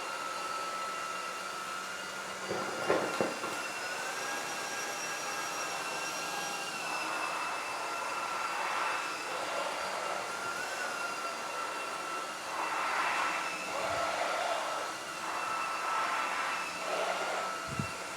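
Proscenic WashVac F20 cordless wet-dry floor cleaner running over a broken raw egg: a steady motor whine that shifts in pitch now and then, with repeated bursts of rushing, slurping suction as it picks up the egg.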